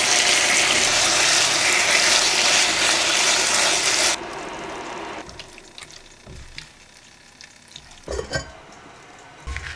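Food sizzling loudly in a hot oiled pan, which stops abruptly about four seconds in. Then a few light knocks of utensils or cookware.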